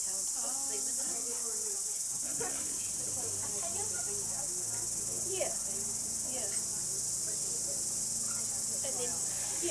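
A steady high-pitched hiss, with faint voices chattering behind it.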